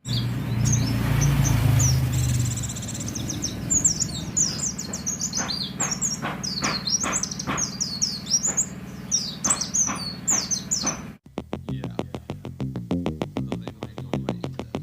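White-eye (pleci) singing a fast run of high, quick descending chirps over a low rumble that is loudest in the first two seconds. About eleven seconds in it cuts off abruptly and rhythmic electronic music with a steady beat takes over.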